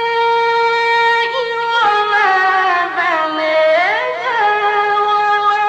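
Male Quran reciter chanting in the ornate mujawwad style. One long steady note is held for about two seconds, then the voice slides down through winding melismatic turns, settles, and rises into another ornamented run near the end.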